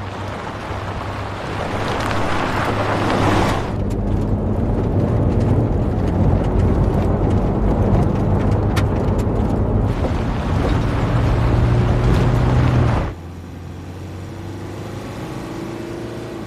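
A vehicle engine running with a steady low hum and rushing noise, which drops abruptly to a quieter hum about thirteen seconds in.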